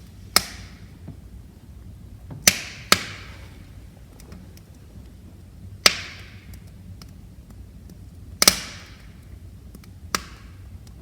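Wood fire crackling: about six sharp, loud pops, each with a short hissing tail, between fainter small ticks over a low, steady rumble of the flames.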